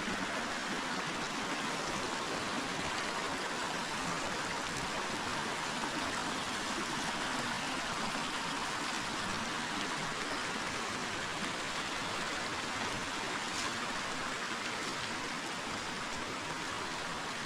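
Forest river flowing, a steady rush of running water with a faint tick or splash now and then.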